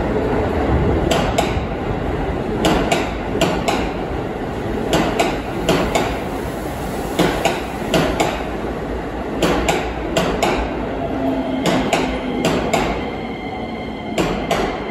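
Keisei commuter train running slowly into a terminal platform over a steady rumble, its wheels knocking over rail joints in close pairs of sharp clacks, about one pair a second, as each bogie passes. A faint thin whine comes in near the end as the train slows.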